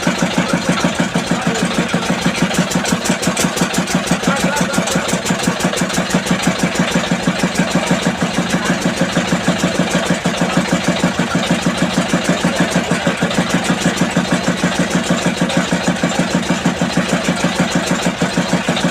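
Tractor diesel engine idling steadily, with an even pulsing beat of about five a second.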